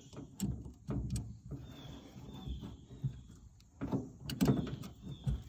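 Scattered clicks, scrapes and knocks of hand tools and metal fittings being worked on a fuel tank's lines, with a faint thin squeak a second or two in and a quick run of sharper knocks about four seconds in.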